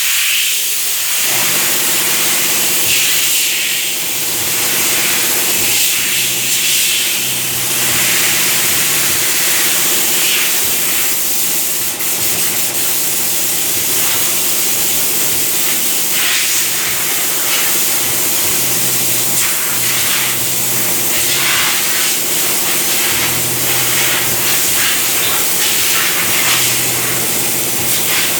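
High-pressure water spray hissing steadily as it washes a car's engine bay, varying a little as the jet moves, with a low steady hum underneath.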